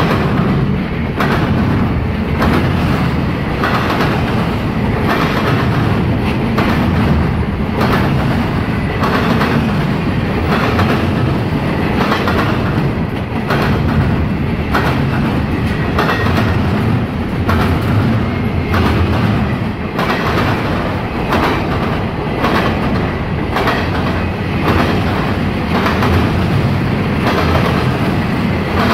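Double-stack intermodal freight train passing close by: a steady rumble of the loaded well cars with repeated steel-wheel clacks on the rails.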